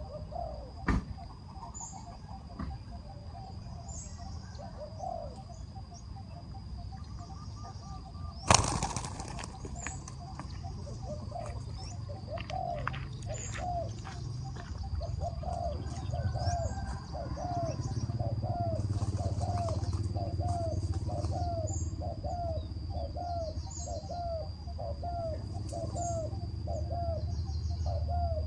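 An animal's short call repeated about once a second, over a steady high whine. A sudden loud knock comes about a third of the way in, and a low rumble builds in the second half.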